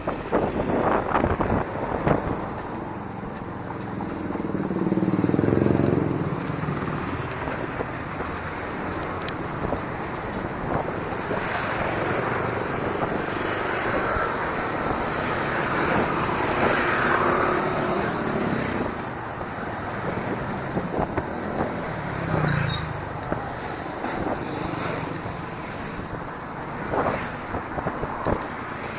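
Bicycle ride over a rough track: tyre rumble and the bike rattling, with scattered clicks and wind buffeting the microphone. The rumble swells louder about five seconds in and again near twenty-two seconds.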